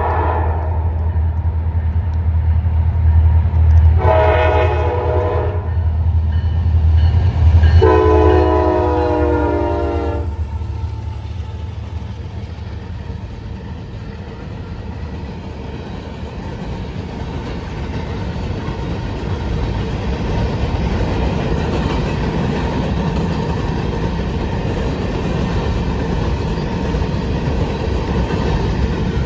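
Diesel freight locomotive passing close by, its engine rumbling. The horn ends a note just as it begins, then sounds a shorter blast about four seconds in and a longer one at about eight seconds. After the engine rumble fades, the train's cars roll past with a steady clickety-clack.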